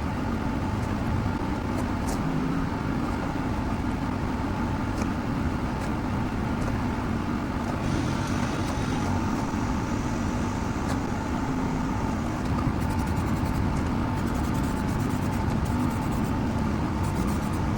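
A steady mechanical drone like a running engine, with a faint constant hum, a light high hiss for a few seconds midway, and a few faint ticks.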